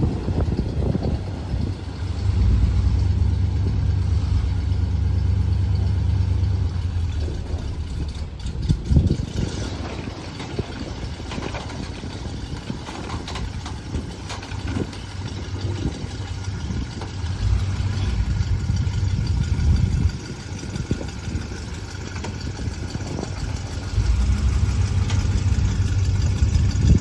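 Pickup truck engine idling with a low rumble that grows louder for a few seconds at a time and then settles back, three times over.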